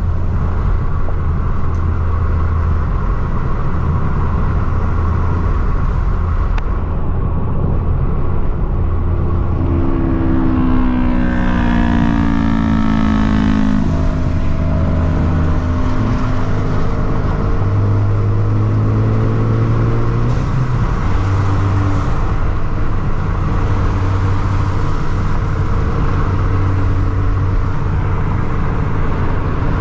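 A car engine running with a steady low drone while driving. For a few seconds about a third of the way in, its pitch climbs as it accelerates and then falls away.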